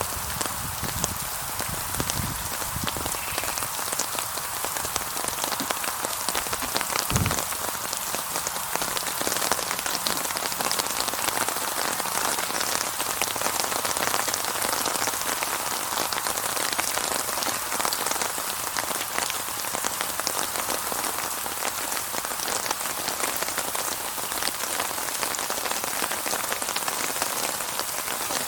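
Steady rain falling: an even hiss thick with the fine patter of drops, with one brief low thump about seven seconds in.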